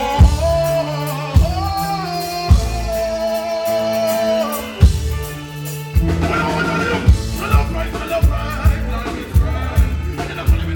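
Live reggae band with a voice: long held, wavering notes over a few heavy, widely spaced drum and bass hits, then the full band comes in with a steady beat a little past halfway.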